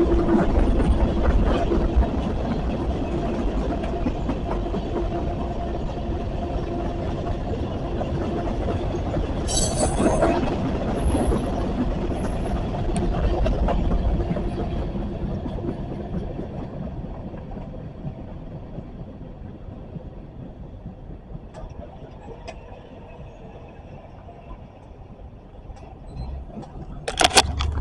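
Freight train cars rolling past on the rails, with a brief high-pitched wheel squeal about ten seconds in. The rumble then fades steadily as the end of the train passes and draws away.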